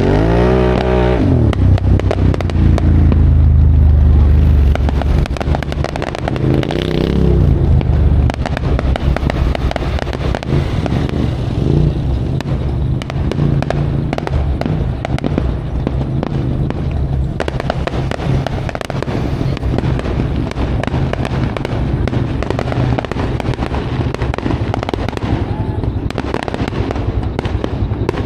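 Off-road vehicle engine revving up and down twice in the first seven seconds, then running on under load, over a constant crackling clatter.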